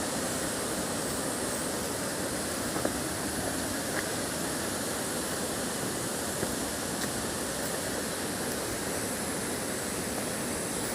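Steady rush of falling water from a waterfall, an even noise with no change in level, with a few faint ticks.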